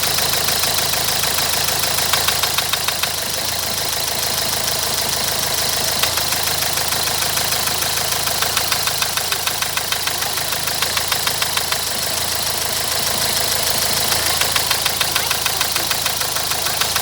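Renault 1.5 dCi K9K diesel engine running steadily with a rapid, regular knock that comes and goes in strength. The owner suspects a knocking Delphi injector: the knock appears only when the engine is hot, with no fault codes, no smoke and normal power.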